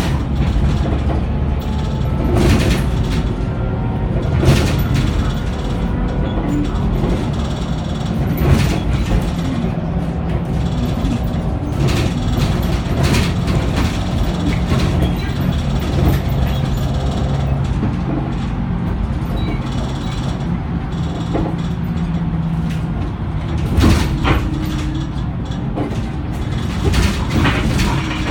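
Scania K94UB double-decker bus under way, heard on board: its engine runs steadily beneath scattered rattles and knocks from the body and fittings.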